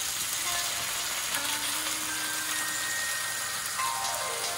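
Chicken thighs sizzling in a hot grill pan as teriyaki sauce is poured over them: a steady frying hiss.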